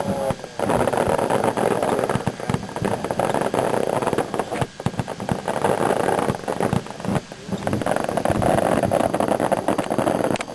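Fireworks going off in rapid succession, a dense run of bangs and crackles with a couple of short lulls.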